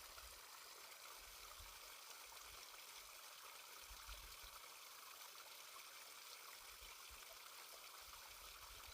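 Faint, steady rush of a stream's flowing water, with intermittent low rumbles underneath.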